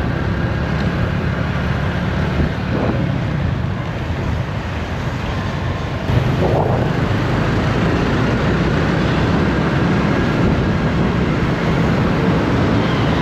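Motorcycle engine running on the move, with wind buffeting the microphone and road noise; it gets a little louder about halfway through.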